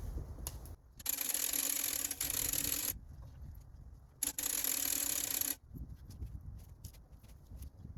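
Two bursts of scraping noise, the first about two seconds long starting about a second in, the second shorter, starting about four seconds in; each starts and stops abruptly.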